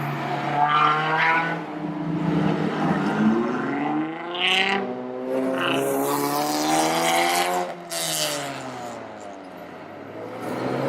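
Car engine revving as it pulls away: it idles, climbs steadily in pitch for several seconds, then falls away near the end. Two short high hisses come about four and a half and eight seconds in.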